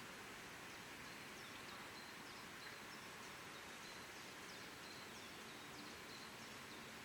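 Faint, steady outdoor background hiss, with a small bird's faint high chirps repeating through it.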